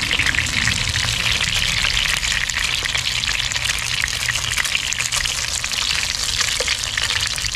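Gyoza dumplings pan-frying in a little oil in a nonstick skillet, a steady sizzle with many small crackling pops as their bottoms toast.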